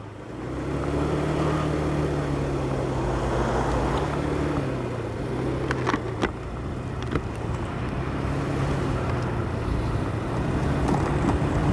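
Motorcycle engine running steadily, heard through a helmet-mounted microphone, with a rush of wind and road noise that swells up about half a second in. A few sharp clicks come around six and seven seconds in.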